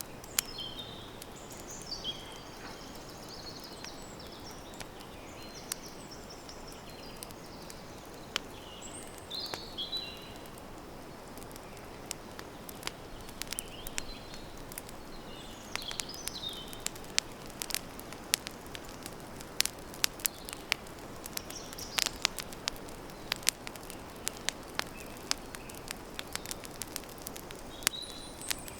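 Wood campfire crackling steadily, with sharp pops and snaps that come more often in the second half, while birds chirp in short phrases.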